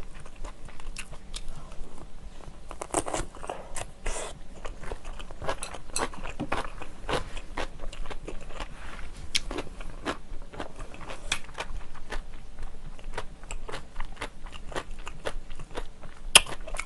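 Close-miked chewing of crunchy stuffed cucumber kimchi (oi-sobagi): irregular crisp crunches and wet chewing clicks. A spoon knocks sharply on the plate once near the end.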